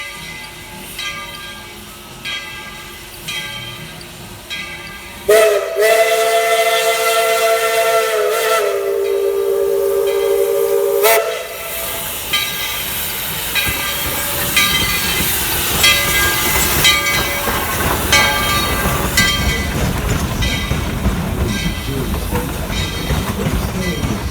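Steam locomotive whistle blowing one long chime-like blast of about six seconds, starting about five seconds in, with a slight dip in pitch partway through. Before it comes a ringing strike about once a second. After the whistle, steady hissing, chuffing noise builds as the train gets under way.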